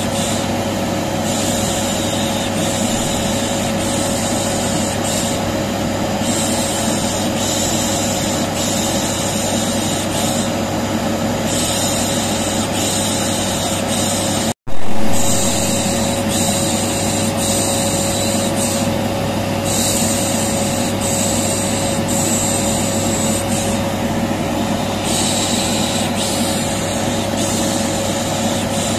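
Vacuum cleaner running steadily with a constant whine, overlaid by repeated 'shh' shushing sounds every second or two, used as soothing white noise for a colicky baby. About halfway through the sound cuts out for an instant and comes back briefly louder, where the recording loops.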